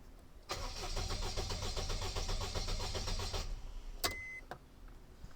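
Toyota Duet's starter cranking the engine for about three seconds in a fast, even rhythm without it catching: the failing fuel pump is not delivering fuel. About four seconds in, a sharp click and a short high beep.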